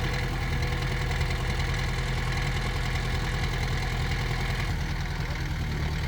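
Diesel engine of heavy earthmoving machinery running steadily at low revs. Its note shifts slightly about three-quarters of the way through.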